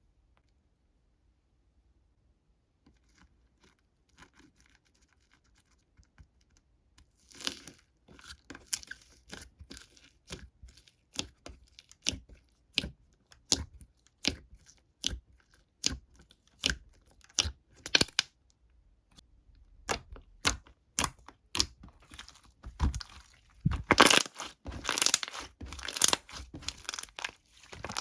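Crinkly material being torn and crumpled close up: near silence at first, then sharp crackles about one to two a second from about seven seconds in, becoming denser and louder near the end.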